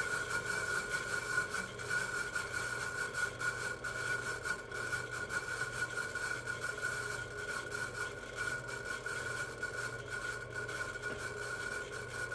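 Woodworking power tool's motor running steadily with a constant high whine over a low hum, which the owner suspects is a bad bearing.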